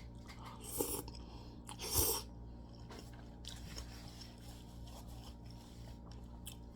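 A person eating close to the microphone: chewing and mouth noises, with two short louder bursts about one and two seconds in, over a low steady hum.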